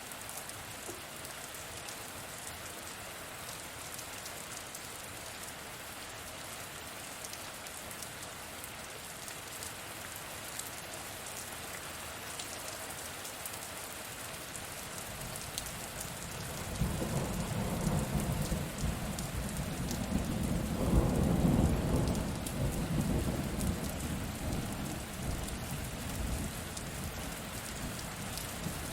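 Steady rain falling with a fine patter of drops. Just past halfway a long roll of thunder swells in, loudest a few seconds later, then slowly rumbles away.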